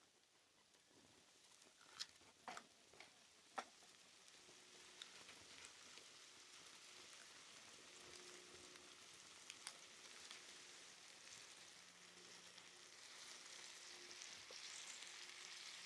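Faint sizzling from a camp cookfire over a wood stick-burner stove, with a few sharp crackles about two to three and a half seconds in. The hiss grows slightly louder toward the end.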